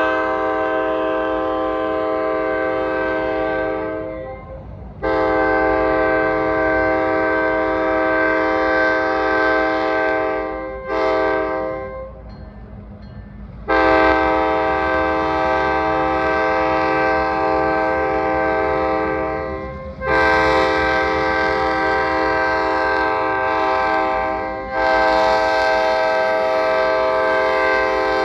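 Diesel locomotive's multi-chime air horn blowing the grade-crossing signal: two long blasts, a short one, then long blasts that continue, over the low rumble of the passing train.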